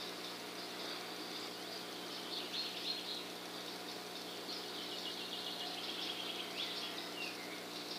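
Faint bird chirps and short calls scattered over a steady background hum.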